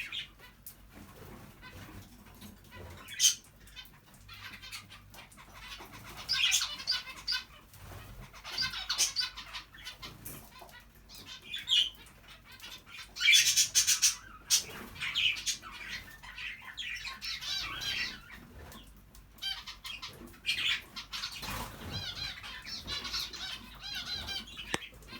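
Aviary cage birds, budgies and canaries, chirping and chattering irregularly, with short bouts of wing fluttering and small clicks.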